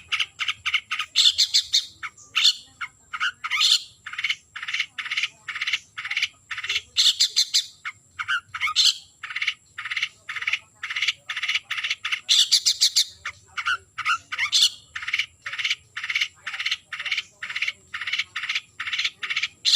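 Long-tailed shrike (cendet) giving its harsh, rapidly repeated chattering call, about three notes a second, broken now and then by higher scratchy bursts: the territorial call it uses to challenge a rival.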